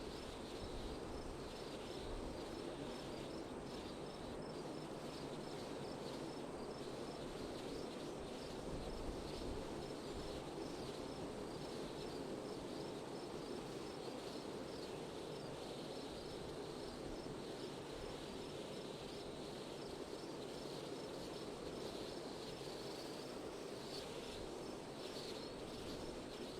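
Steady wind noise, with a cricket chirping in an even rhythm of about two chirps a second throughout.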